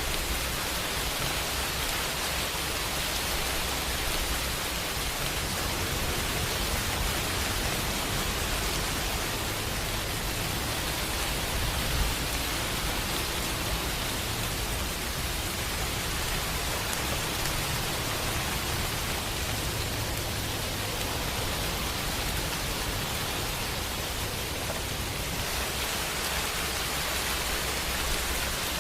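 Steady rain, a dense, even hiss, with a low rumble of distant thunder beneath it that swells through the middle and fades.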